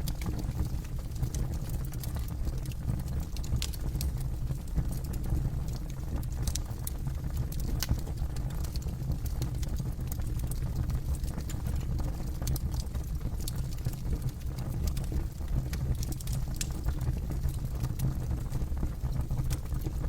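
Bonfire burning: a steady low rumble of the flames with frequent sharp crackles and pops scattered irregularly throughout.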